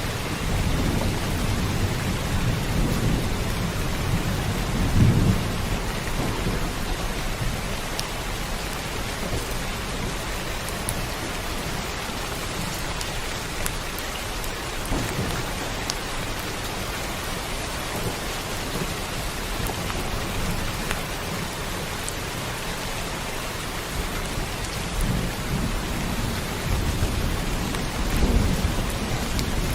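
Steady heavy rain with rolling thunder: low rumbles swell near the start, about five seconds in, and again near the end.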